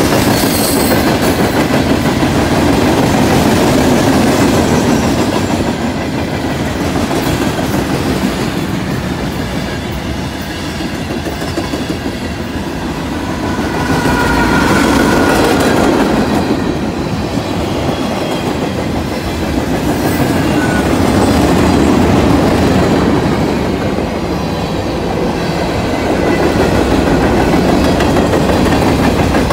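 Freight train cars rolling past close by, with a steady rumble and the clickety-clack of steel wheels over the rail joints. About halfway through, the sound swells as a mid-train Norfolk Southern diesel locomotive goes by.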